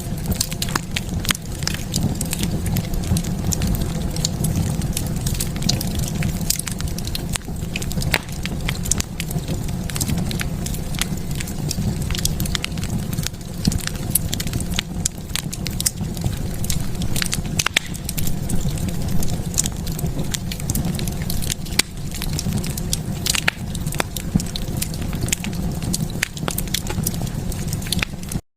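Wood fire burning in a fireplace: irregular, dense crackles and pops over a steady low rumble of the flames, briefly cutting out just before the end.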